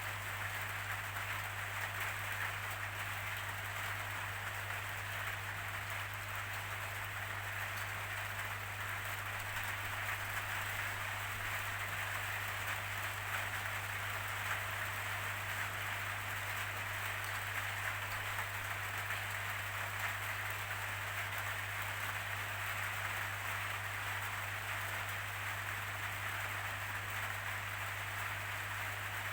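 Steady rainfall, an even hiss of rain falling on surfaces with no change in intensity, over a constant low hum.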